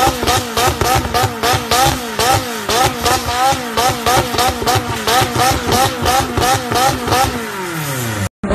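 McLaren 600LT's twin-turbo V8 being revved while the car stands still: quick repeated throttle blips, about two to three a second. Near the end the revs fall away in one long drop before the sound cuts off.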